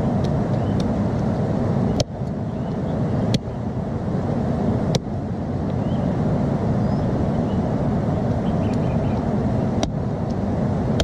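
Steady rushing of a river, with sharp pops from a campfire now and then.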